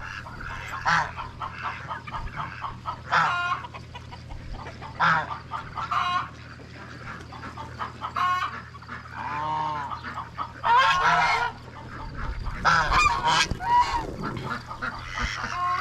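A goose honking again and again, in loud, separate calls a second or two apart, some arching up and falling in pitch. A steady low hum runs underneath.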